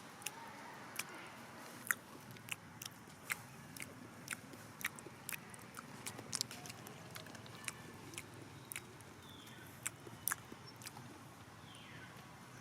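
Irregular sharp clicks and light crunching sounds, a few each second, over a low steady background.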